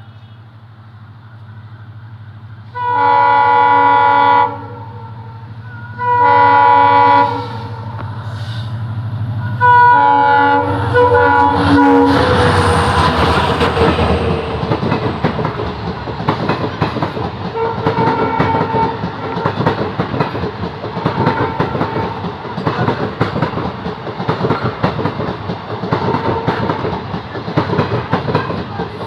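Indian Railways train sounding its horn in two long blasts and a shorter broken one, then passing at speed with a loud rush and the steady clickety-clack of its wheels over the rail joints.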